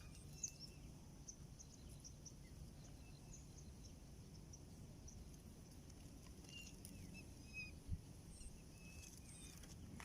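Faint outdoor ambience with scattered short, high bird chirps over a low steady background, and one brief low knock about eight seconds in.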